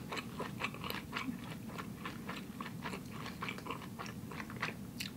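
A person chewing a vegan kimchi sushi roll: a steady run of small, irregular clicks and crunches, several a second.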